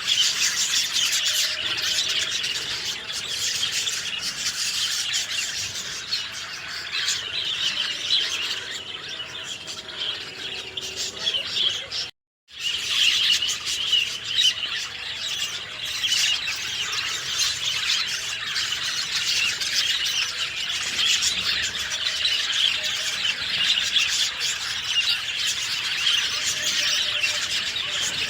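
Dense chorus of many birds chirping and twittering over one another, with some squeakier, squealing calls. The sound cuts out completely for a split second about twelve seconds in, then resumes.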